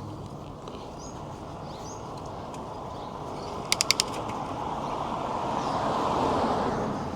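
Steady outdoor street and wind noise from a moving bicycle ride, growing louder around six seconds. A quick run of four sharp, high clicks comes about four seconds in.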